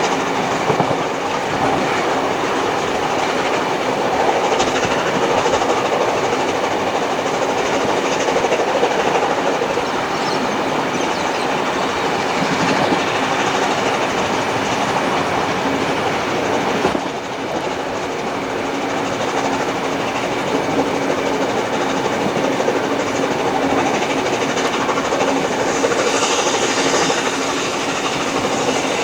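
Train carriages rolling along the track at speed behind a steam locomotive, a steady running rumble with wheels clicking over the rails; the noise dips briefly about two-thirds of the way through.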